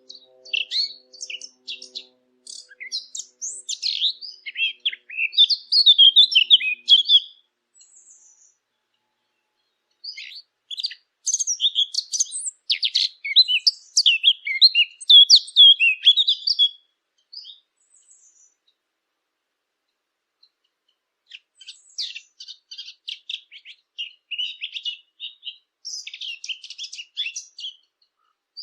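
A Sylvia warbler (the 'fig bird') singing three long bouts of rapid, rambling warbled song, each about six to seven seconds, with pauses of a few seconds between them.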